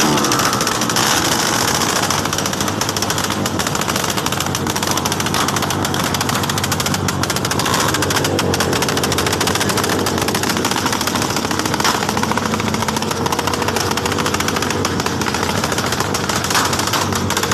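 Modified high-compression Honda TMX 125 single-cylinder four-stroke engine running, its exhaust firing in rapid, even pulses like a machine gun.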